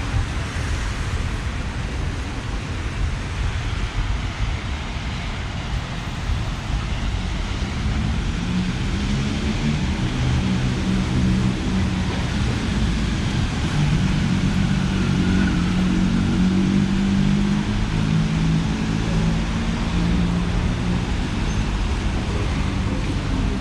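City street traffic on a wet day: a steady wash of passing vehicles, with a large engine humming close by from about eight seconds in until near the end.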